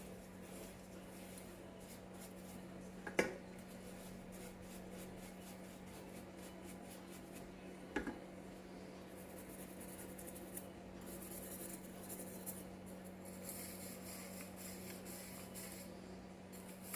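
Faint rubbing and scraping as a small carburettor cover is scrubbed clean by hand, with two light clicks about three and eight seconds in, over a steady low hum.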